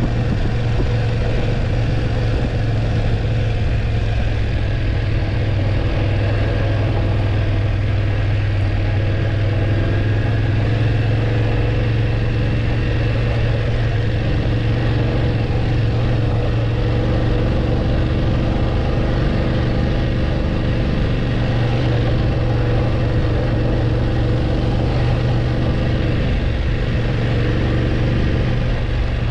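BMW F850GS parallel-twin engine running at a steady pace during the ride, a constant low drone with no breaks.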